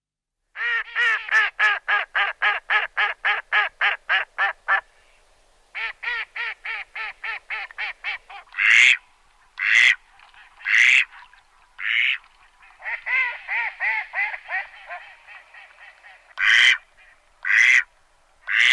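Ducks quacking: fast runs of about four quacks a second, broken by single louder quacks.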